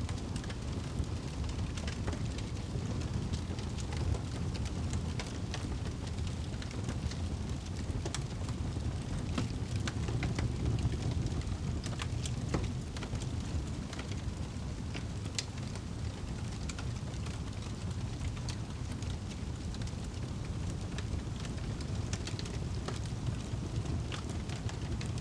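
Wood fire crackling in a fireplace: a steady low rumble of burning with many scattered sharp pops and snaps at irregular moments.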